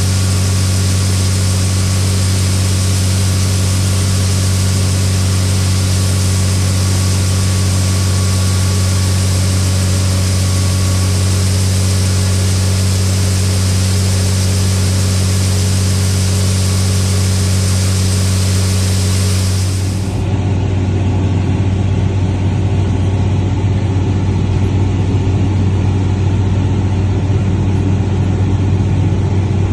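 Farm harvest machinery engine running steadily under load. About two-thirds of the way in the sound changes abruptly to a rougher, lower rumble.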